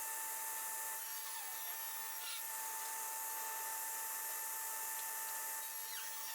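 Table saw running steadily: an even high hiss with a thin, steady whine, holding the same level throughout.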